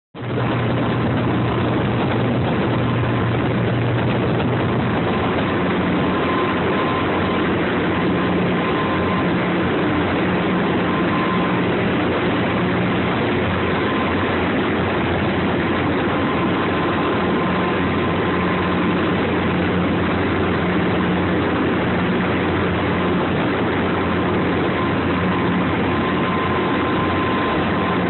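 Twin 450 hp Caterpillar diesel engines of a 38-foot Rampage boat running steadily: a deep, even engine drone under a constant rush of noise.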